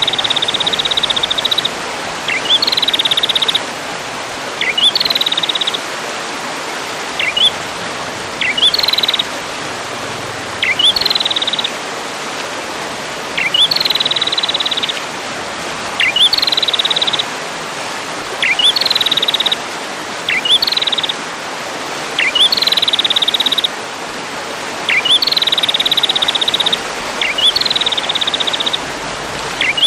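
A songbird repeating one call about every two seconds: a quick upward whistle, then a high note that drops into a fast buzzy trill, over a steady hiss.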